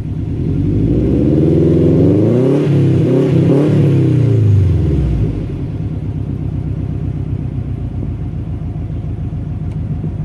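2004 Subaru Forester XT's turbocharged 2.5-litre flat-four exhaust, through headers, catless up-pipe and downpipe, a high-flow centre cat and a Prodrive oval tip, revving up from idle about half a second in and dropping back to idle about five seconds in, then idling steadily.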